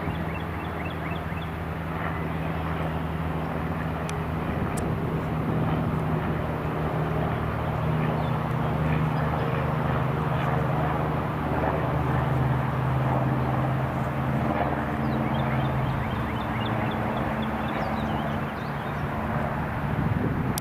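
An airplane flying past: a steady engine drone with a low hum that swells gently toward the middle and eases off near the end. Faint bird chirps sound near the start and again near the end.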